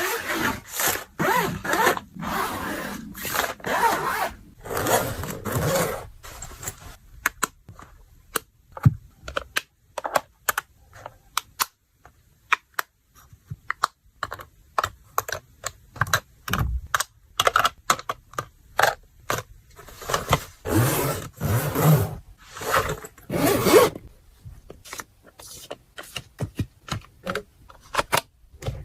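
Handling sounds of packing: objects scraped and rubbed against each other in repeated strokes of about a second, interspersed with many short clicks and taps.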